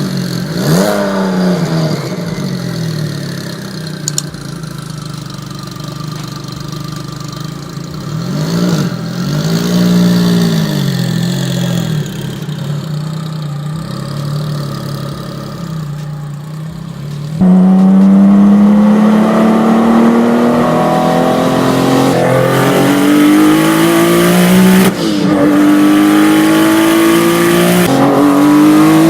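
A car engine revving and accelerating. Its pitch wavers and swells a few times, then about two-thirds of the way in it gets suddenly louder and climbs steadily, dropping back twice near the end as it shifts gear.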